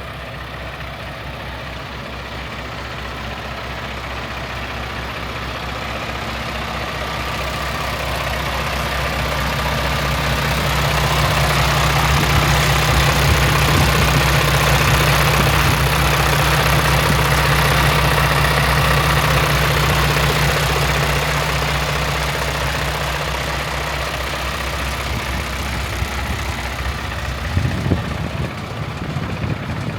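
Paccar MX-11 inline-six diesel of a Peterbilt 579 idling steadily at an unchanging pitch. It grows louder toward the middle and fades again. A few irregular knocks come near the end.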